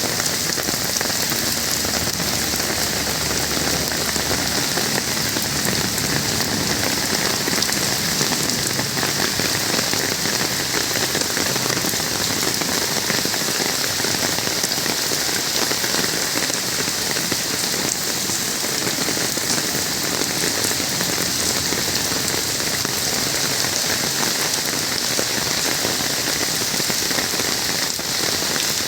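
Steady rain falling, an even dense hiss with many fine drop ticks, holding at one level throughout.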